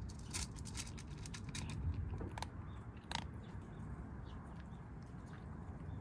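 Kittens chewing and crunching food: a quick run of crisp crunches in the first two and a half seconds, a sharp one about three seconds in, then fainter chewing.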